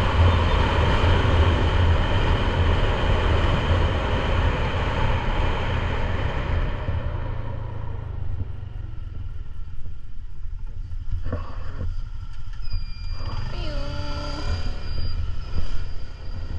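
Motorcycle riding, with a steady low engine hum and wind and road noise on the microphone that die down after about seven seconds as it slows. A thin high tone and some wavering pitched calls come in near the end.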